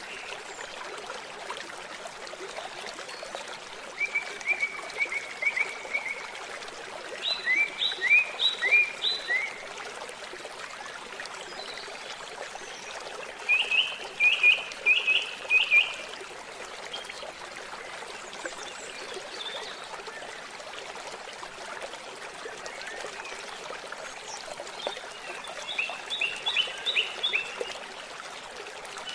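Water trickling steadily, with a bird breaking in four times with short runs of quick, high repeated notes.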